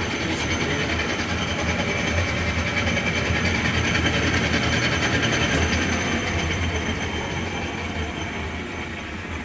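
Logan Powermatic 6561 metal lathe running, driven by its 5 hp three-phase motor: a steady mechanical run of spindle and gear train with a dense rumble and steady whine. It gets gradually quieter over the last few seconds.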